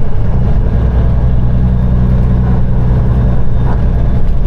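Peterbilt 389 semi truck's diesel engine running at a steady, low drone while driving.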